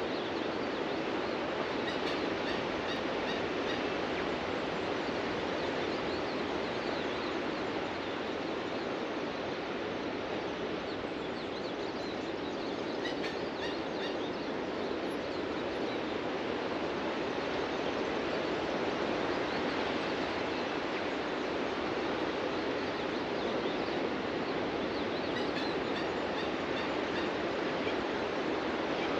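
Ocean surf breaking on a beach as a steady, continuous wash with gentle swells in loudness, and faint bird calls now and then.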